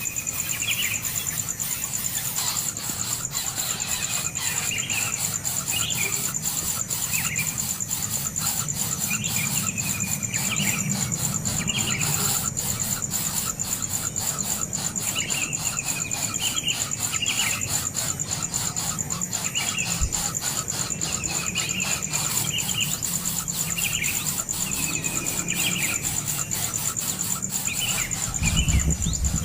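A bird repeating a short call, a level note followed by a quick chirp, about every one to two seconds, over a steady high-pitched insect drone.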